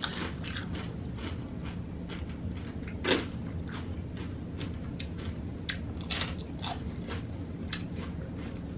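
A person chewing a crunchy tortilla chip: a string of small irregular crunches, with one louder crunch about three seconds in.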